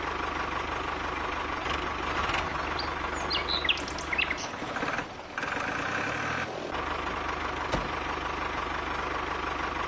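Tractor engine running steadily at low revs, a low even hum, with birds chirping about three to four seconds in. The engine's low rumble drops away for about two seconds midway, then returns.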